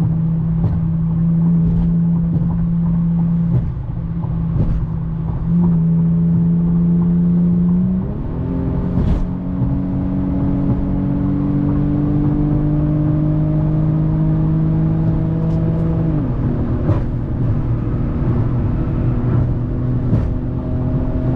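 Infiniti G37 sedan's 3.7-litre V6 with a muffler delete, run hard at highway speed while passing another car. It holds a steady note, steps up in pitch about eight seconds in, climbs slowly, then drops back about sixteen seconds in.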